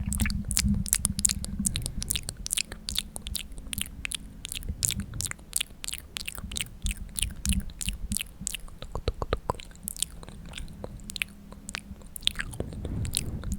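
Close-miked ASMR mouth sounds: quick wet clicks and smacks, several a second, coming thick at first and thinning out in the second half.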